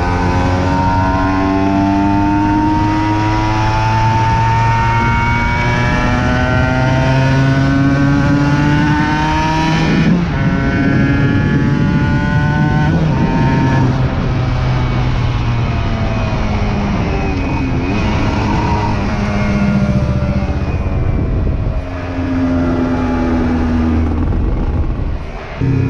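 Aprilia RS 125's single-cylinder two-stroke engine under way. The revs climb steadily for about ten seconds, break sharply at a gear change, then fall away as the throttle eases, and rise again near the end with a brief dip.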